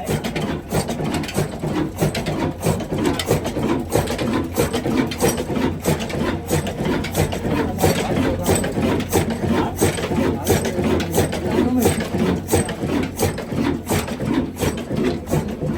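Diesel engine running after a cold start, with a steady, regular knocking of a few beats a second over a low rumble.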